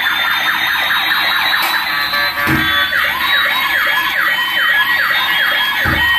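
Electronic toy police-car siren sounds, several siren patterns overlapping: a fast yelp repeating about three times a second over a slower rising and falling wail.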